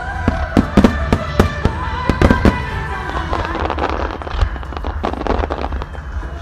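Fireworks display: a rapid run of sharp bangs from bursting shells in the first two and a half seconds, then scattered lighter cracks and pops. Music with a wavering melody plays along early on.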